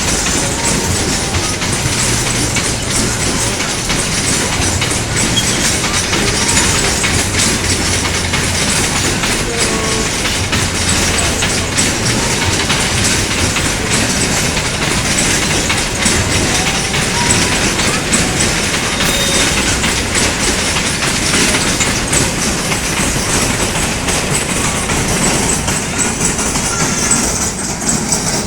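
A train passing close by, its wheels clattering over the rail joints in a steady loud rush that eases off near the end.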